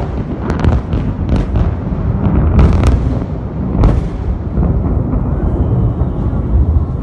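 Thunder from a close lightning strike: a loud rolling rumble with sharp crackles scattered through it.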